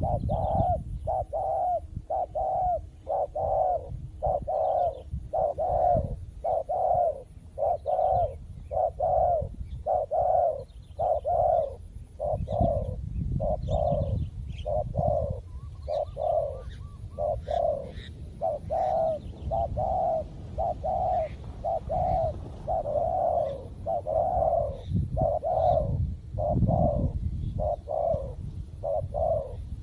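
Spotted doves cooing in a rapid, almost unbroken run of short coos, about one and a half a second, with a brief pause about halfway through: a decoy dove and wild doves calling to challenge each other. Faint small-bird chirps sound above them.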